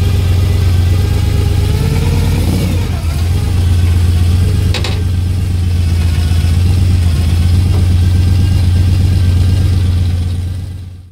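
Lifted 1981 Ford F-250 truck's engine running at idle with a steady low rumble, with one short sharp click about five seconds in; the sound fades out near the end.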